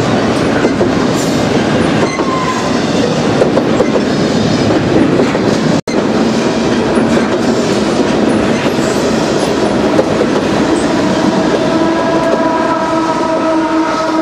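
Double-stack intermodal container train rolling past at speed: wheels clattering over the rail joints with a steady rumble, the rear distributed-power diesel locomotives going by near the end of the train. The sound drops out for an instant about six seconds in, and a steady chord of tones comes in later and grows louder.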